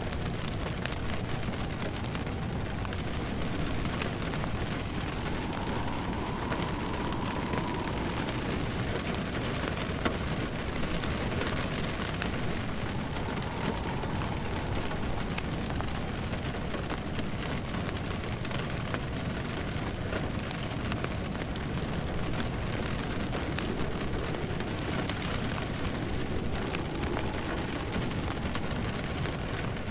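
Steady rain with a wood fire crackling, scattered small sharp pops over an even hiss.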